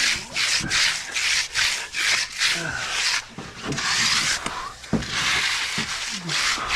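Hand float scraping across wet concrete in quick back-and-forth strokes, about two a second, working the surface smooth.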